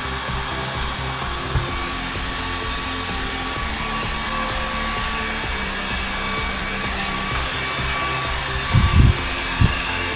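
Cordless stick vacuum running steadily as it sucks up construction debris, with background music underneath. Two short knocks about nine seconds in.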